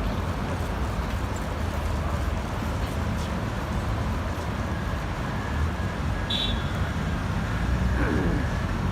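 Steady rumble of city street traffic, with a brief high squeak a little past the middle.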